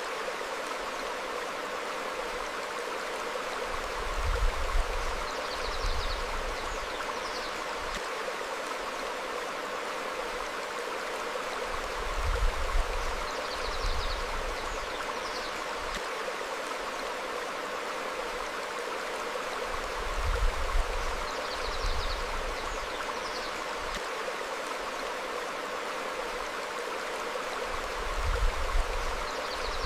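Stream flowing over rocks, a steady rushing of water. A low rumble swells and fades about every eight seconds, with faint short high chirps at the same spacing.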